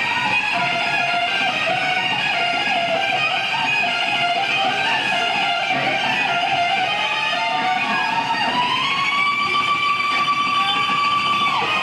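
Live rock band with an electric guitar playing a lead solo: a melodic line of bent, gliding notes, with a note that slides up about eight seconds in and is held for about three seconds before dropping away.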